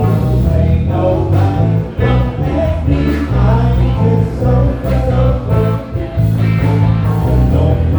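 Live band playing a groove: electric bass and drums driving a steady beat, with keyboard and a melodic lead line on top.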